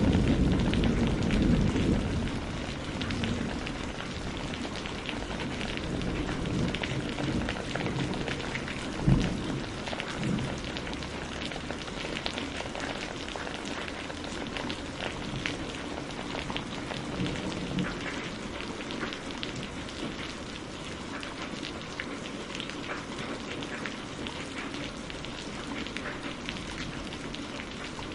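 Steady rain falling, with a dense patter of drops. A low thunder rumble fades away over the first few seconds, and a short, sharp thunderclap comes about nine seconds in.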